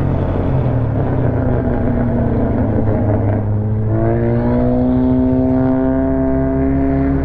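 Honda Civic FC's engine and exhaust running steadily. About halfway through, the engine note climbs smoothly as the revs rise, then holds at the higher pitch.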